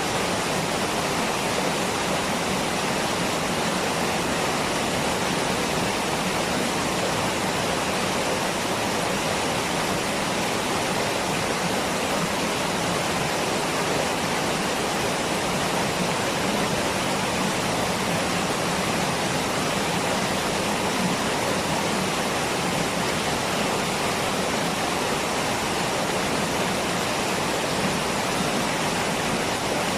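Waterfall, water rushing and pouring in a steady, unbroken roar.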